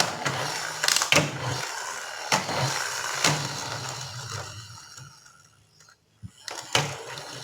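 Push-and-go friction toy vehicle's flywheel gears whirring with a ratcheting rattle. The sound starts suddenly and fades out over about five seconds as the toy runs down, and a few clicks and knocks follow near the end.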